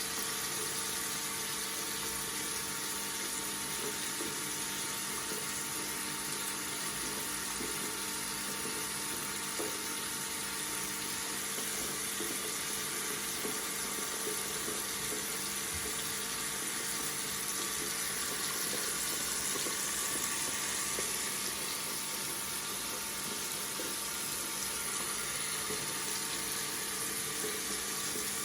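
Water running steadily from a tap into a sink, an even splashing hiss with no breaks.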